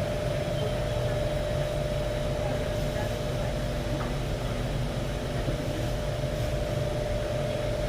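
Cabin noise inside an Alstom Metropolis C751A metro train running at a steady pace: an even low rumble with a constant hum.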